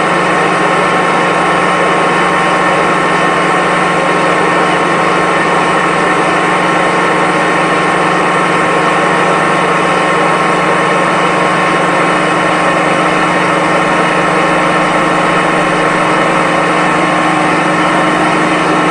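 Hoover Commercial C1125 upright vacuum cleaner's 5 amp motor running steadily at full speed: a constant, unchanging motor drone with a steady whine.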